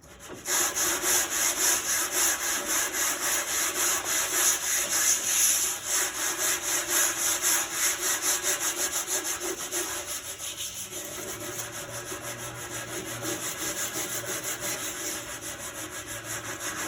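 Sandpaper rubbed back and forth by hand over the rusty painted sheet metal of a 1971 International Cub Cadet, in quick even strokes of several a second.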